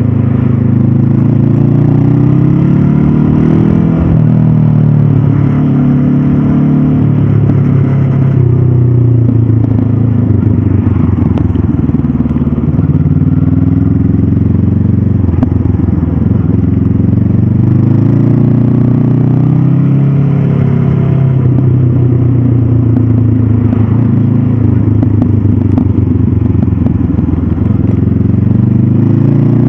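Stock Honda CB500F's 471 cc parallel-twin engine and exhaust under way, its pitch rising and falling several times as the rider rolls the throttle on and off.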